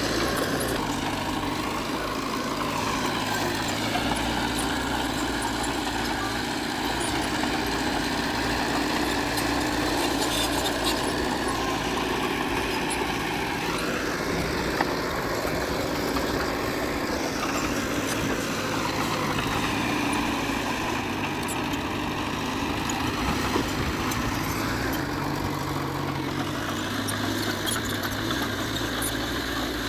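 Heavy diesel earth-moving machinery running steadily, its engine pitch rising and falling a few times in the middle as the load and revs change.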